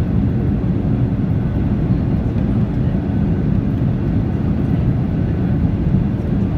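Steady cabin noise inside a Boeing 737-800 on final approach, with the landing gear down and the flaps extended: an even, low rumble of airflow and engines with no distinct events.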